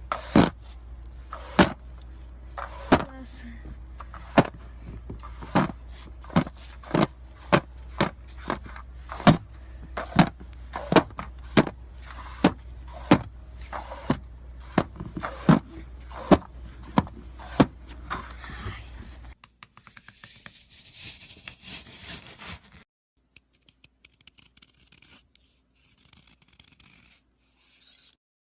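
A long run of sharp clicks or knocks, about one every two-thirds of a second, over a low steady hum. They stop about two-thirds of the way through, giving way to a few seconds of scraping hiss, then only faint scattered sounds.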